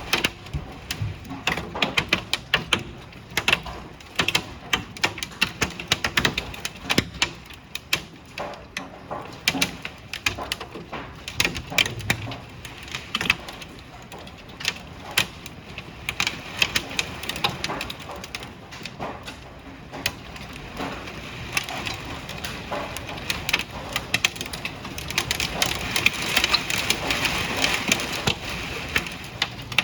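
Hailstones pelting down, a dense irregular clatter of sharp impacts over a hiss of rain, growing denser and louder in the last few seconds.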